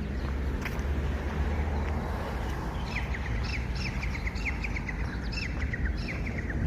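A songbird singing a quick run of short chirps that slowly fall in pitch, starting about halfway in and lasting about three seconds, over a steady low outdoor rumble.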